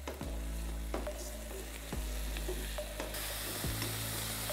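Sliced chicory and onions sizzling in a hot wok as a wooden spatula stirs and scrapes them, with irregular knocks of the spatula against the pan.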